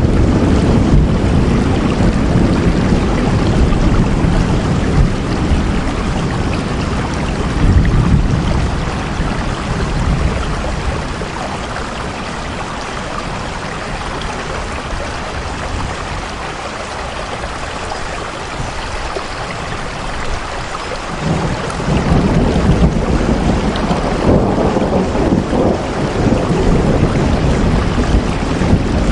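Steady heavy rain with a deep rumble underneath; the rumble fades away in the middle and comes back suddenly about two-thirds of the way through.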